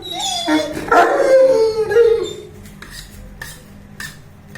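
Saint Bernard giving a loud, drawn-out howling yowl of about two seconds, its pitch sliding up and down, followed by a few short clicks.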